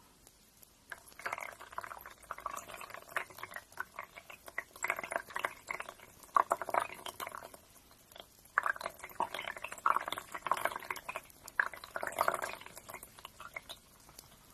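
A nail being filed: rapid scratchy rasping strokes in several bursts with short pauses between them.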